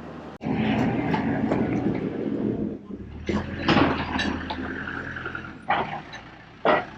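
A vehicle engine running at a steady low pitch, with a few short, loud sounds over it.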